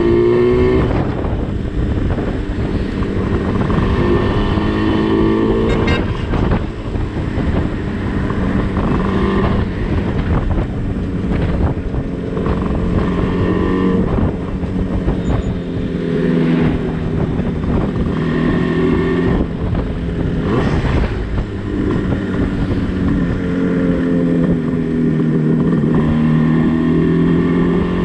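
Yamaha RD350's two-stroke parallel-twin engine, breathing through DG expansion chambers, pulling on the road, its pitch rising and falling with the throttle. Wind noise on the microphone runs under it.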